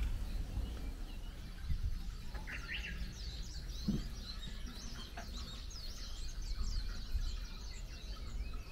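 Wild birds chirping in the trees below: a chorus of many quick, high, downward-sweeping chirps that thickens from about three seconds in, over a steady low rumble. A soft thump comes near four seconds in.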